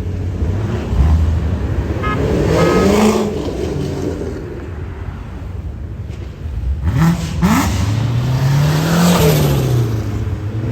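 Consulier GTP's mid-mounted turbocharged 2.4-litre SRT-4 four-cylinder revving. The engine pitch climbs and falls, rising again quickly about seven seconds in and climbing once more before dropping away near the end.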